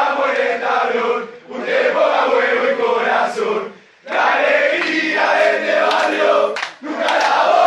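A group of voices chanting or shouting together in unison, in phrases of about two seconds with short breaks between them.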